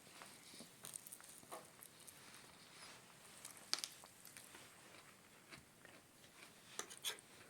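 Quiet eating sounds: faint chewing and biting with scattered small clicks, the sharpest about four seconds in and two more near the end.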